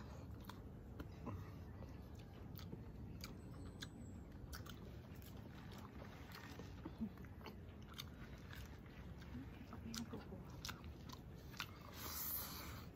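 A person chewing and biting food close to the microphone, with scattered small crunches and mouth clicks and a brief louder noise near the end.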